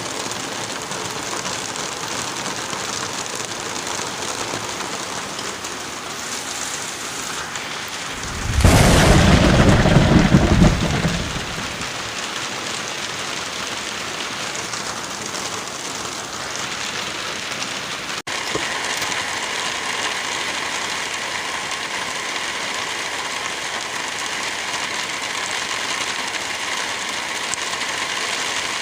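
Steady heavy rain with one loud thunderclap about nine seconds in, lasting two to three seconds. The rain sound breaks off for an instant a little past halfway and carries on.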